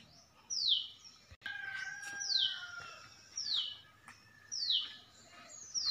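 A bird repeating one short, high whistle that slurs downward, five times, about once a second. Fainter, lower bird notes sound between them.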